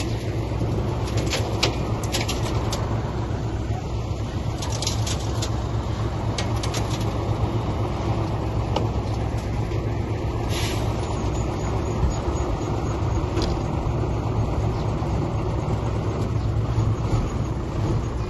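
Heavy diesel construction machinery running steadily, with scattered sharp clicks and clanks, most of them in the first seven seconds.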